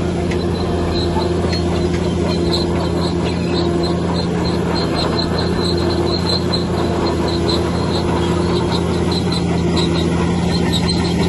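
Heavy earthmoving machine's engine running steadily, with a rapid, repeating high squeak over it.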